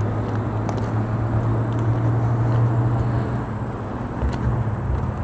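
A steady low engine hum with a broad wash of outdoor background noise.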